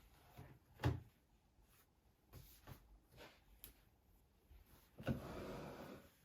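Small household handling sounds: a sharp knock about a second in, a few light taps, then a noisy rustle lasting about a second near the end.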